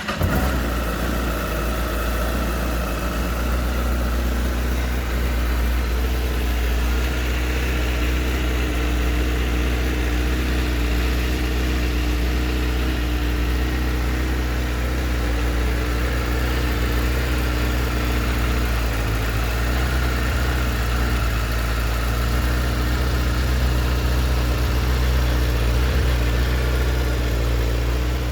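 Honda CBR1000RR Fireblade's 999cc inline-four engine and exhaust idling steadily.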